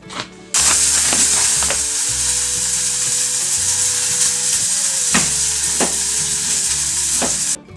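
Yakisoba of pork, carrot and bean sprouts frying in a pan, a loud steady sizzle with a few sharp scrapes of stirring. It starts suddenly about half a second in and cuts off just before the end.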